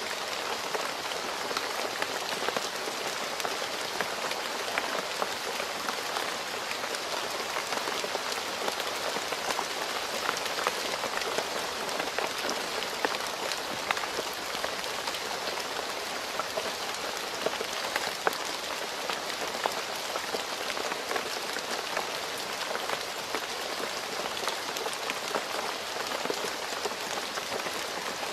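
Steady rain falling on a road surface, an even hiss dotted with many close, sharp drop splashes.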